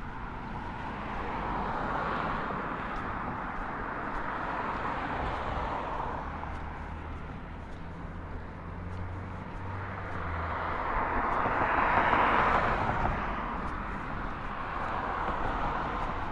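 Road traffic passing: a swell of vehicle noise early on that fades, then a louder pass-by about twelve seconds in, with a low engine hum in between.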